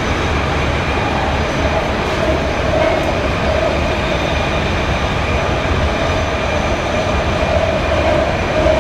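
BART train running at speed through an underground tunnel, heard from inside the car: a loud, steady rumbling roar of wheels on rail.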